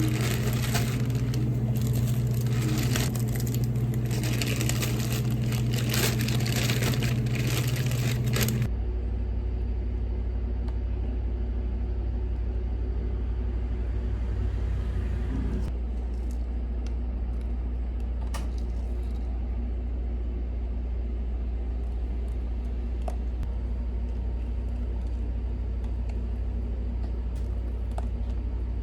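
Steady machine hum, likely a kitchen appliance motor, loud for about the first nine seconds and then cut off suddenly, leaving a lower steady hum with a few faint clicks.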